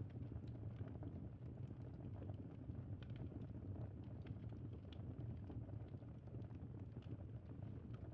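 Campfire burning: a steady low rumble of flames with scattered small, sharp crackles and pops from the wood.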